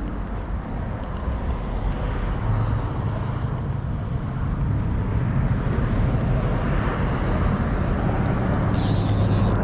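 Steady low rumble of distant road traffic, growing a little louder, with a brief high hiss near the end.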